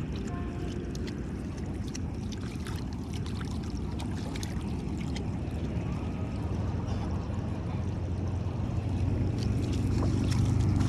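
Shallow water splashing and trickling, with scattered small splashes and a low wind rumble on the microphone that grows louder near the end.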